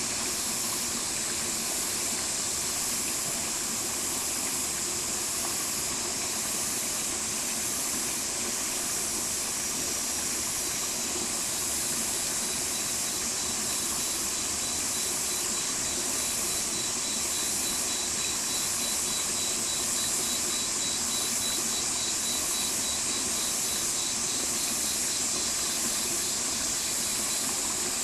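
Stream water flowing steadily, a continuous even rush.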